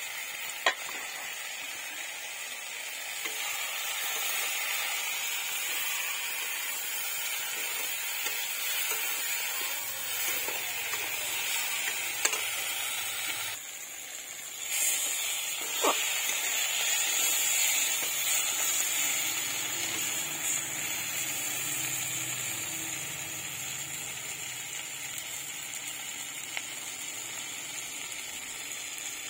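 Eggplant and green chillies sizzling steadily as they fry in fish oil in a metal wok, stirred with a metal spatula that gives a few sharp clicks against the pan.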